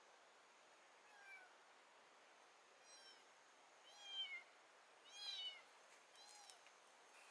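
An animal giving five short calls, each with a clear pitch that rises then falls, about a second apart, the middle ones the loudest.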